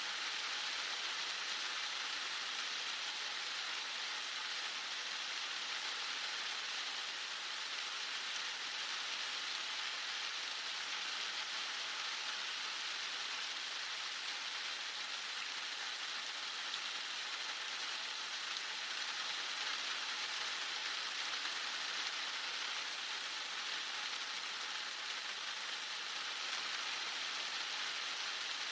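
Heavy rain falling steadily, a constant even hiss with no breaks or single drops standing out.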